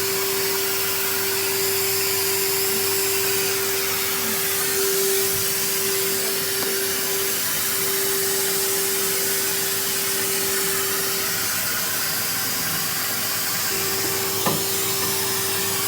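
Vacuum cleaner running steadily: a constant whining tone over rushing air. A brief knock sounds near the end.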